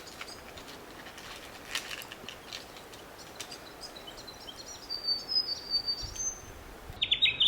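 Birds chirping faintly in the bush, with short high calls about five seconds in. Near the end a koala starts to bellow with a sudden loud run of rapid rasping pulses.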